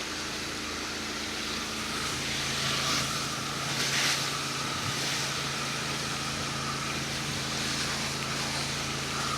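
Pressure washer running: a steady engine hum under the continuous hiss of the water spray from the wand.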